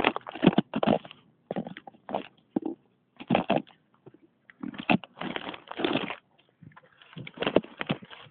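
Gusty wind buffeting the microphone in irregular rushes with brief lulls between them.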